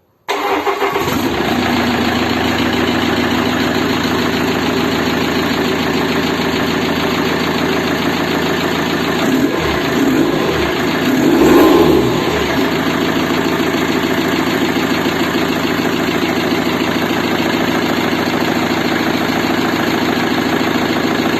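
Home-built four-cylinder diesel engine (1.7 XUD block, 2.0 HDi cylinder head, 1.9 dCi pistons) starting on its very first attempt after assembly. It catches right away and then idles steadily. About ten seconds in it is revved briefly, rising and falling in pitch.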